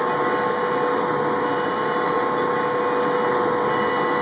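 Double-head CNC router for wooden parts running: a steady machine hum with a constant whine of several steady tones over a rushing noise.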